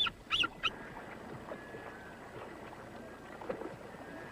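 Bald eagles calling: a few short, high piping calls in the first second, then fainter calls over a steady wash of river water and wind.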